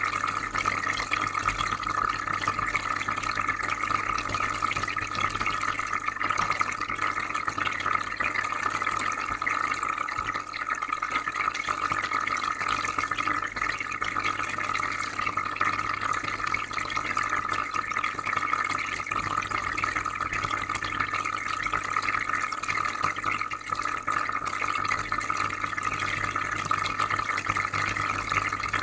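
Aquarium filter running, with a steady trickle and bubbling of water and a low hum underneath.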